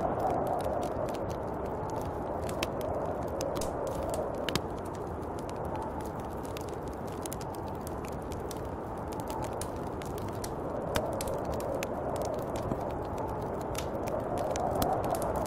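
Snowstorm wind blowing in slow swells, strongest at the start and again near the end, over a steady scatter of small sharp clicks and crackles.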